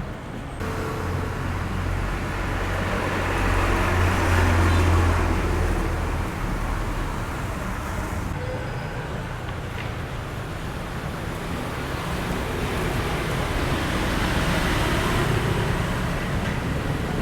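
Street traffic: a vehicle passes close with a low rumble that builds to its loudest about four to five seconds in and fades, over steady road noise that swells again near the end.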